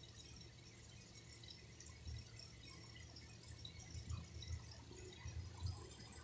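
Faint water dripping and trickling, over a low background rumble.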